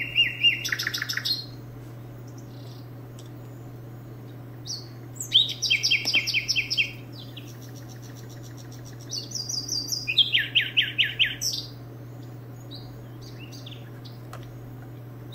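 A small songbird calling in three bursts of fast, evenly repeated high chirps, each burst lasting one to two seconds and stepping between two pitches. A steady low hum runs underneath.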